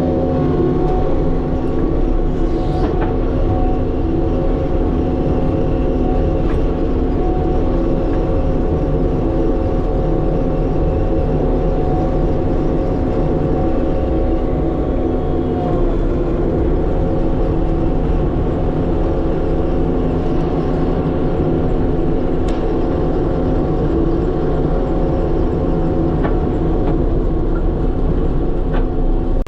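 Heavy diesel earthmoving machine running steadily under load, a constant engine drone with a whine of steady tones.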